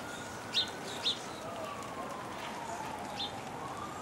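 Steady rain hiss with short, sharp bird chirps about half a second in, again at one second, and near three seconds. Behind them a distant siren wails slowly up and down.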